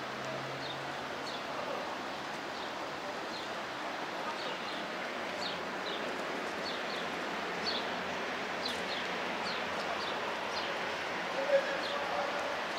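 Small birds chirping again and again, with short high chirps that fall in pitch, over steady outdoor background noise and faint distant voices.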